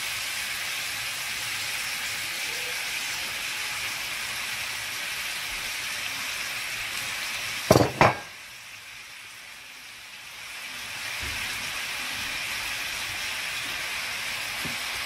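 Lamb ribs frying with sliced red onions in a pan, a steady sizzle. About eight seconds in come two sharp knocks in quick succession, the loudest sounds, after which the sizzle is quieter for a couple of seconds before it comes back.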